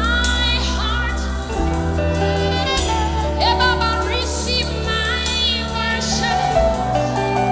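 Gospel worship song: sung, gliding melodic lines over a band with sustained bass notes and light cymbal strokes.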